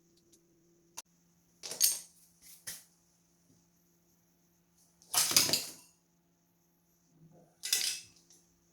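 A sharp click about a second in, then four short bursts of clatter, the longest about halfway through, over a faint steady hum.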